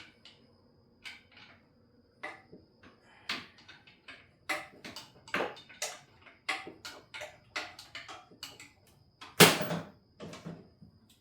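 Metal hand tools clinking, scraping and knocking against the engine while the oil pressure sensor is taken off, in short irregular strokes of about one or two a second. The loudest knock comes about two-thirds of the way through.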